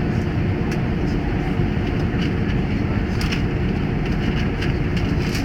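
Steady, loud low rumble of a Boeing 747-400 heard from inside the cabin, with light clicks and rattles scattered through it.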